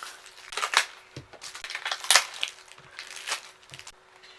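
Packaging being handled as a set of Shark Wheels skateboard wheels is unpacked: irregular crinkling and rustling with several sharp clicks and small knocks, the loudest about two seconds in.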